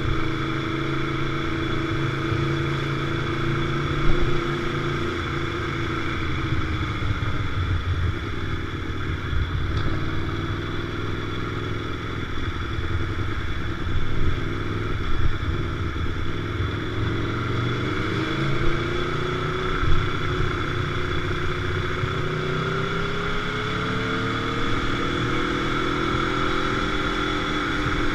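Motorcycle engine heard from on board while riding. The revs drop about a third of the way in and build again, then ease off and climb steadily through the latter half.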